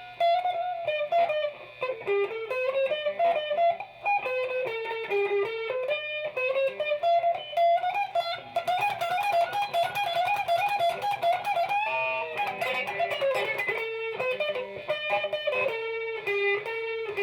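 Guitar music: a plucked melody of quick notes stepping up and down, settling on a held note near the end.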